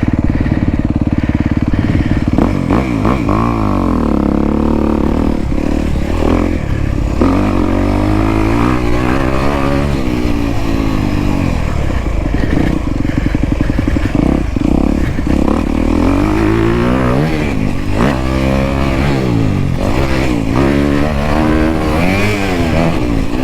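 Dirt bike engine being ridden, revving up and falling off again and again as the throttle opens and closes.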